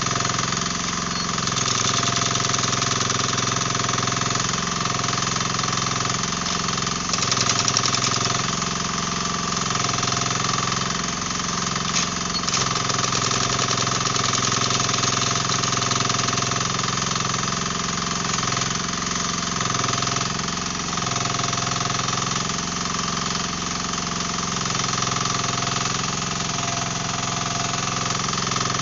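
Dasen 15 mini excavator's diesel engine running under load while its hydraulic breaker hammers, chipping material for a pool excavation; the engine note swells every few seconds as the machine works.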